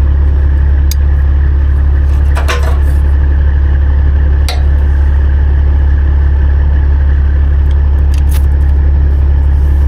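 Heavy diesel engine idling steadily with a deep, even drone, with a few short metallic clinks over it.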